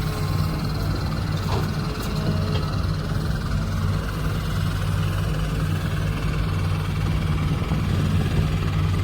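Diesel engine of a six-wheel dump truck loaded with soil, pulling under load with a steady low, loud exhaust note that grows a little louder toward the end.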